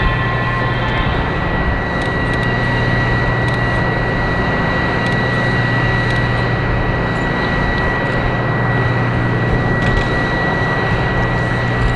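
Jet engine of a Kawasaki T-4 jet trainer running during engine start: a steady high whine over a loud rushing noise and a low hum, holding level without spooling up or down.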